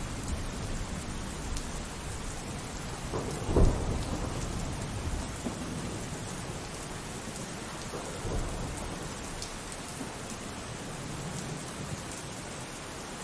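Steady rainfall with thunder: a low rumble that fades over the first few seconds, a sharp, loud thunderclap about a third of the way in, and a softer rumble about two-thirds of the way through.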